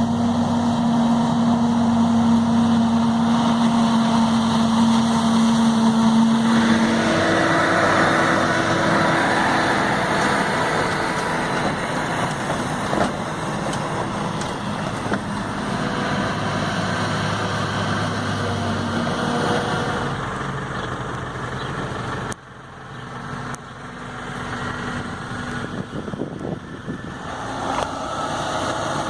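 Heavy six-cylinder turbodiesel farm machinery running steadily during maize silage harvesting. The engine note changes about seven seconds in, and the sound drops suddenly about two-thirds of the way through before building back up.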